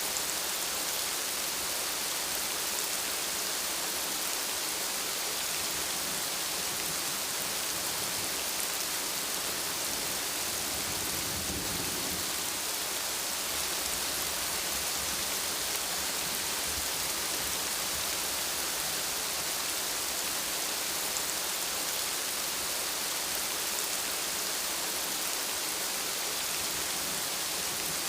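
Steady rain, with a low rumble of thunder for a couple of seconds near the middle.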